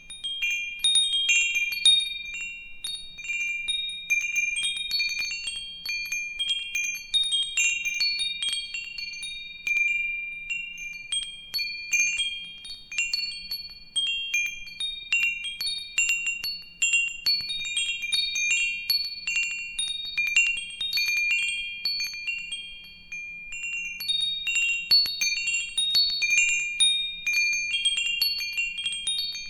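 Wind chimes ringing in irregular, overlapping strikes of several high tones, each dying away quickly. The striking eases off briefly about three-quarters of the way through, then picks up again.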